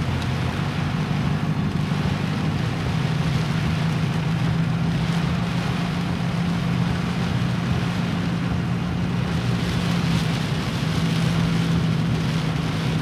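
Car engine running steadily while driving slowly through flooded streets, heard from inside the car, over a steady rushing hiss of water and rain. The engine's hum shifts up in pitch about two and a half seconds in.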